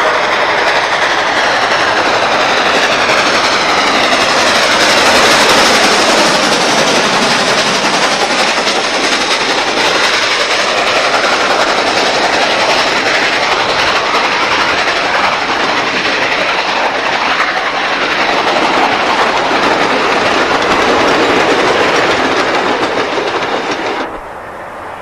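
Steam-hauled excursion train passing close by, its cars rolling steadily on the rails. The sound drops off abruptly near the end.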